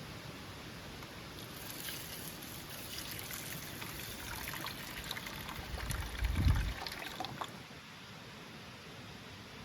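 Liquid trickling for about six seconds, with a dull low thump about six and a half seconds in.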